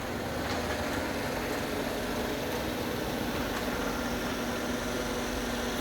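Old screw-drive garage door opener running, a steady motor-and-drive noise with a faint hum, lubricated but still not quiet. It stops at the very end.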